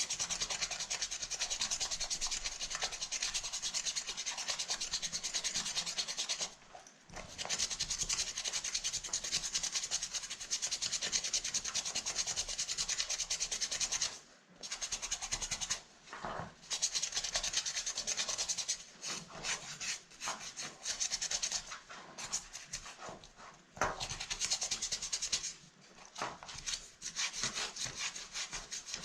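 Rapid back-and-forth scrubbing of a brush on a handbag's surface during deep cleaning. It comes in long runs of fast, scratchy strokes, broken by several short pauses.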